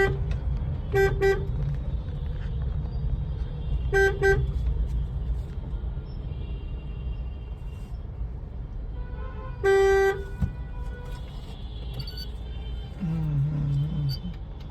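A car horn tooting in short beeps, a quick double toot twice and then one longer toot, over the steady low rumble of the car's engine and road noise in market traffic.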